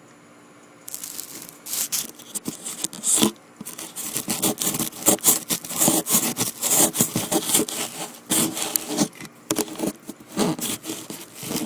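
Rough, irregular scraping and rubbing right against the recording phone, starting about a second in and going on in quick strokes. It is the sound of the phone scraping against the layout, which the family notices snagging on the tunnel.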